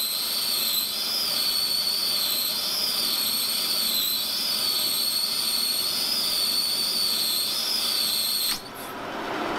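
A machine tool running with a high, steady whine that wavers slightly in pitch about once a second. It cuts off abruptly about a second before the end.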